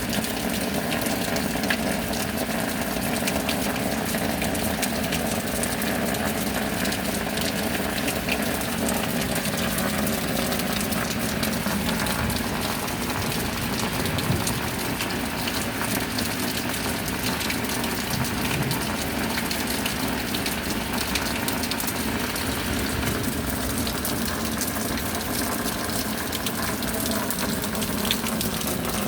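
Steady rain falling: an even rushing hiss packed with a dense patter of drops.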